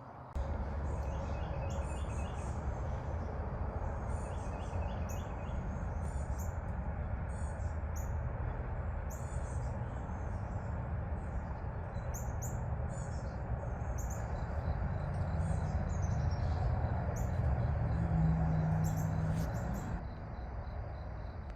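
Small birds chirping and calling, short high notes and a few quick runs of repeated notes scattered throughout, over a steady low rumble of nearby highway traffic. A brief steady hum joins near the end.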